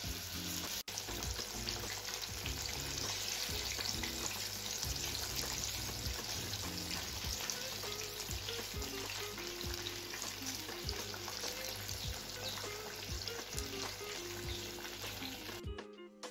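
Potato chapli kababs frying in hot oil in a pan: a steady sizzle with fine crackling, which cuts off suddenly near the end.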